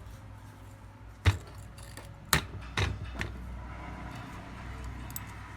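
Metal parts knocked and clinked together by hand: three sharp clanks, one about a second in and two a half-second apart near the middle, over a low steady hum.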